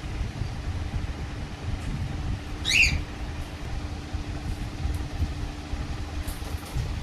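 A pet parrot gives one short, shrill squawk about three seconds in, over a steady low rumble.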